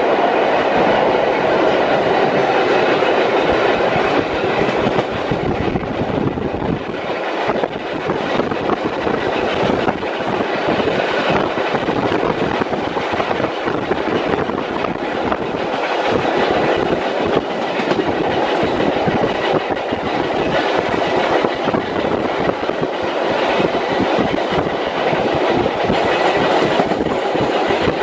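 Running noise heard from inside a 1903 BMT BU elevated subway car in motion: a steady rumble with the wheels clicking over rail joints.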